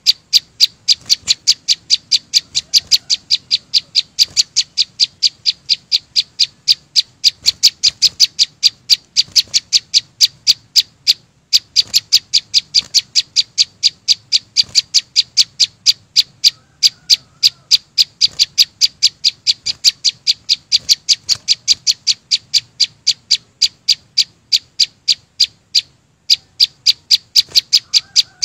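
A small songbird that the Vietnamese call chim sâu xanh, singing one sharp, high note over and over at about four a second. The series breaks off briefly twice.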